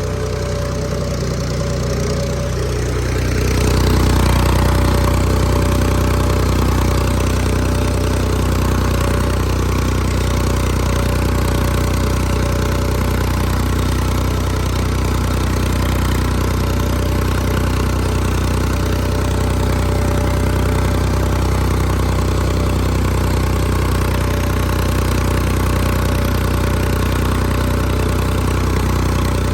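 Tractor engine running steadily under load. Its pitch shifts over the first few seconds and it grows louder about four seconds in, then holds even.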